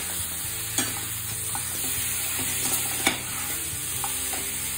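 Marinated chicken pieces sizzling as they fry over a high flame in a metal pan, while a spatula stirs them. The spatula clicks sharply against the pan a few times.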